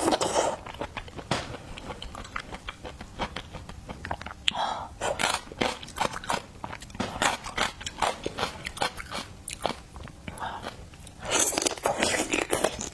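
Close-miked eating sounds: a person chewing and biting seafood, with many short mouth clicks and louder bursts of chewing about halfway through and near the end.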